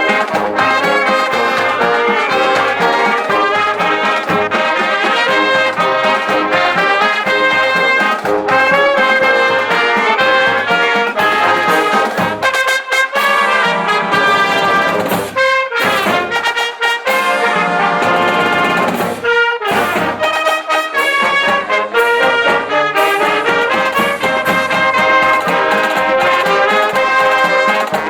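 High-school marching band playing a march, with trumpets and trombones carrying the tune. A few brief breaks in the low end come near the middle.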